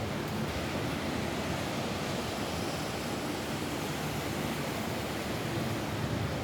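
Steady rain falling on a roof, an even hiss with no single drops standing out.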